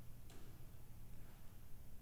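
Quiet library room tone: a steady low hum with a faint hiss, and a single faint click about a third of a second in.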